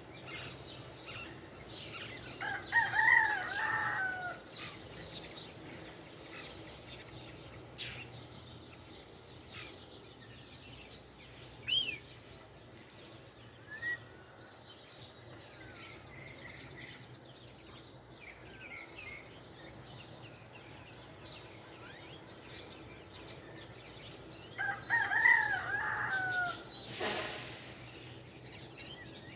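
A rooster crows twice, a few seconds in and again about twenty seconds later, while small birds chirp in between.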